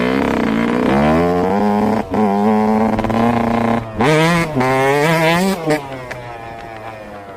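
Yamaha YZ125 single-cylinder two-stroke engine revving hard, its pitch climbing with brief throttle cuts, reaching its highest revs about four to five and a half seconds in. After about six seconds the revs drop and the sound fades.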